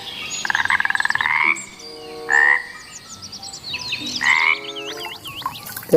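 Frog croaking sound effect: a long rattling croak rising in pitch, a short croak, then another rattling croak, with faint high chirps between them.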